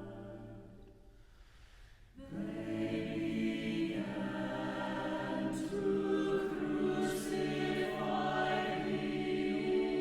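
Choir singing slow, sustained chords. A held chord fades away, and about two seconds in the voices enter together on a new chord and hold it, with a couple of brief sung 's' consonants in the middle.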